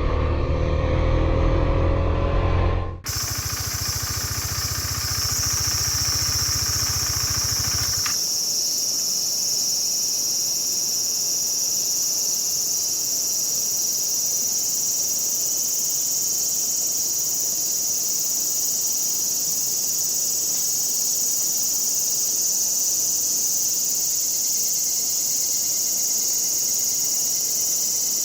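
A Husqvarna Svartpilen 401's single-cylinder engine pulling with rising pitch. After a cut it idles with a low throb, then switches off about eight seconds in. A steady, high-pitched chorus of summer insects runs on alone after that.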